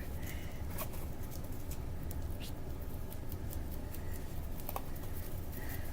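Light, scattered scratching and small taps of a dusting brush and digging tool working a soft chalk dig block, over a steady low hum.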